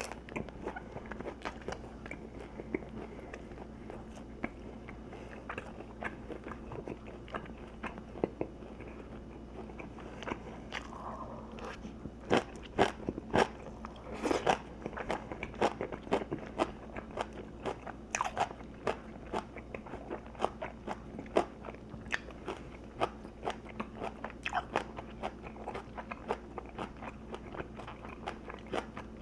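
A person chewing crunchy food close to the microphone: many short, sharp crunches that grow louder and more frequent about halfway through.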